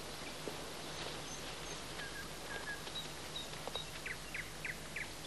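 Quiet outdoor ambience with small birds chirping: a few short high chirps, then a quick run of four down-sliding calls about four seconds in, over a steady hiss and low hum.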